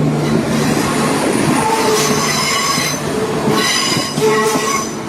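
Train's wheels squealing against the rails, the high-pitched squeal coming and going several times over a steady low drone.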